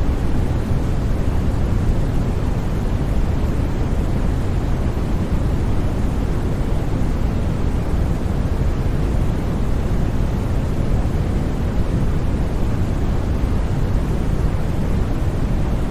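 Steady, unbroken white noise for sleep: an even hiss, heavier in the low range than at the top, with no changes.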